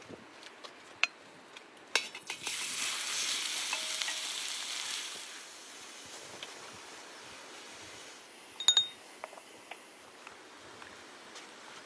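Food sizzling in a hot pan, loud for a few seconds and then settling to a faint hiss. A few light clicks come before it, and a utensil clinks against metal near the end.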